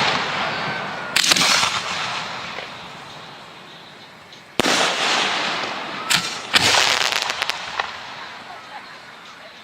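Professional aerial firework shells bursting, four sharp bangs: one about a second in, then three close together in the second half. Each bang trails off in a long hissing fall, and a scatter of sharp crackles follows the last bursts.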